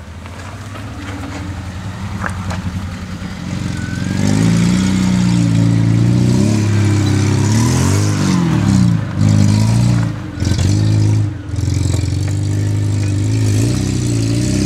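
Suzuki Vitara 4x4's engine revving hard under load as it climbs a steep muddy bank. The revs rise and fall unevenly with several brief drops, and the engine grows much louder about four seconds in as the vehicle comes close.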